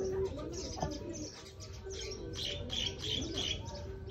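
Birds chirping in the background, with a run of four short, high chirps about two and a half seconds in.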